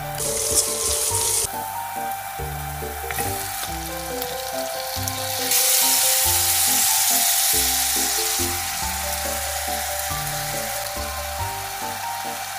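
Pork ribs and onions sizzling in oil in a hot stainless steel wok, under a background music track. The sizzle flares right at the start as chopped onions drop into the hot garlic oil. It flares again, more loudly, for about three seconds from about five and a half seconds in, as sauce is poured over the ribs.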